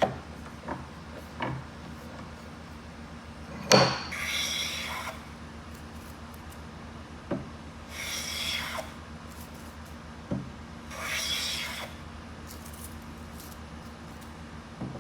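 A hand tool scraping along wood in separate strokes of about a second each, three in all, each soon after a sharp knock of the tool or workpiece being set down. The loudest knock comes just before the first stroke, about four seconds in.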